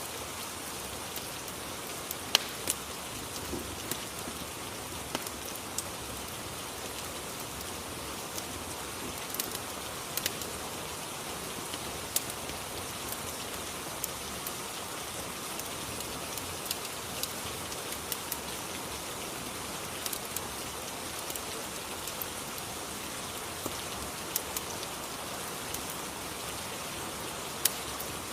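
Rain-and-fireplace ambience: a steady hiss of falling rain with irregular sharp crackles and pops from a wood fire.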